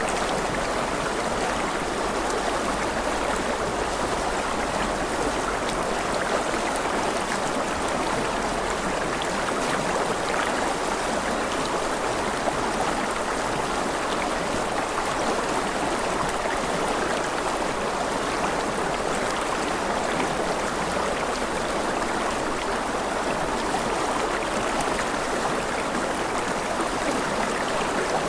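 Running water, like a stream, rushing steadily and evenly without pause.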